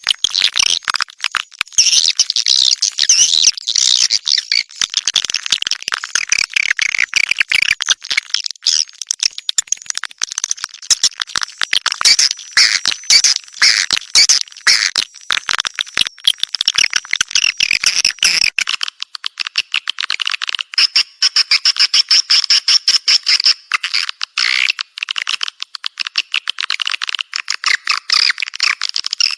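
A bird singing and chirping in rapid, unbroken high-pitched phrases. About two-thirds of the way through, the low background drops away abruptly, leaving only the shrill calls.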